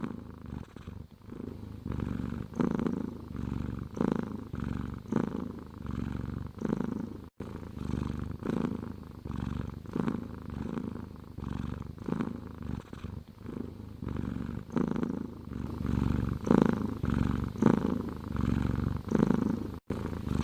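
Domestic cat purring close up: a low rumble that swells and fades with each breath, roughly once a second.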